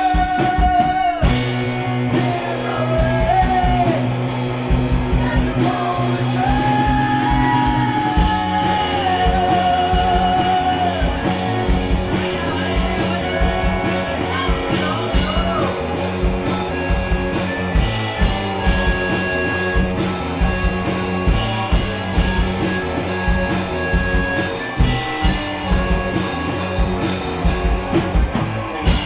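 Live gypsy rock band playing: a sung melody over guitar, bass and a steady drum beat for about the first half, after which the instruments carry on.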